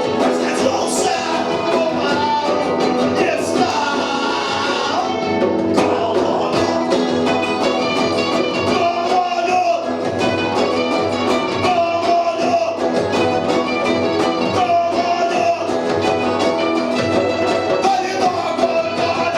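Punk band playing a song live, guitar-driven music with singing.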